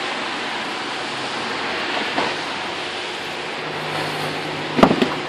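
Steady hiss of rain and wind, with a running car engine idling low underneath. A few sharp knocks come a little before the end.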